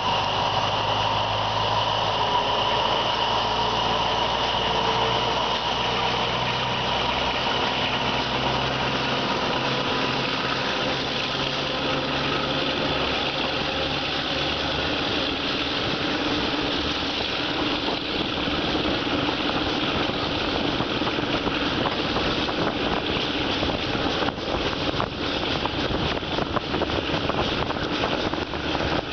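Diesel-hauled passenger train pulling out of a station, heard from inside a carriage with the window open. A steady low engine drone at first gives way to rising wheel-and-rail rumble as the train gathers speed, with a few clicks near the end.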